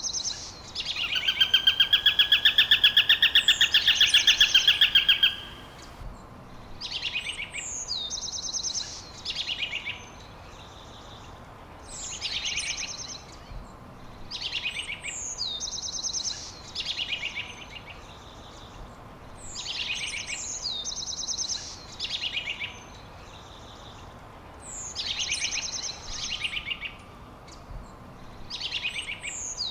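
Songbirds singing: one bird repeats the same short phrase about every four seconds, a high downward slur followed by a quick run of notes. From about one second in to about five seconds in, a loud, fast, even trill sounds over it and is the loudest part.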